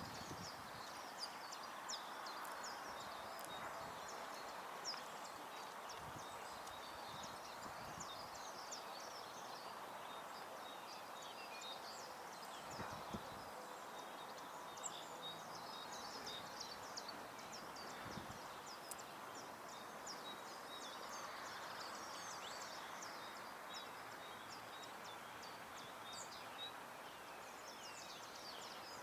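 Several small songbirds chirping and twittering in short, overlapping high calls, over a steady hiss of outdoor background noise, with a few soft low thumps.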